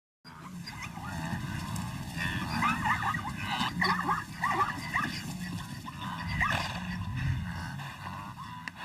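Animal calls: a run of short, high calls that bend up and down, several a second, from about two seconds in.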